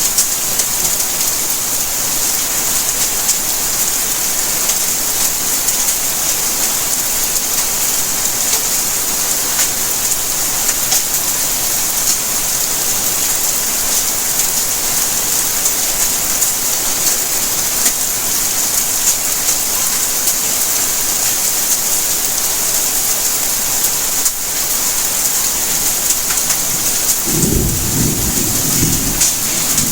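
Steady rainfall: a continuous hiss with the fine patter of drops landing. Near the end a low rumble of thunder comes in under the rain.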